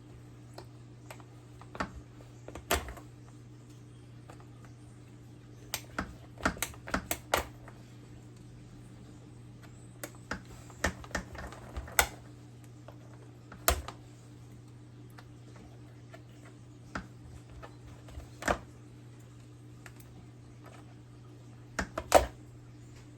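Scattered sharp clicks and taps, some in quick clusters, from the hot stapler, staples and plastic part being handled, over a steady low hum. The loudest click comes near the end.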